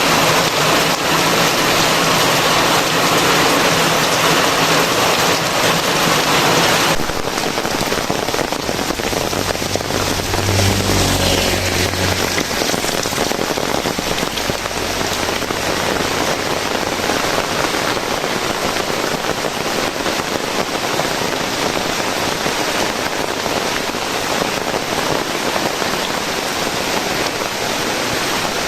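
Steady heavy rain, a dense hiss with no let-up. About seven seconds in the sound changes abruptly and drops a little in loudness, and a short low rumble comes through around ten to twelve seconds in.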